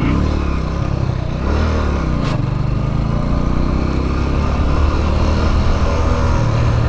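Motorcycle engine running while riding, its pitch shifting briefly about one to two seconds in, then holding steady.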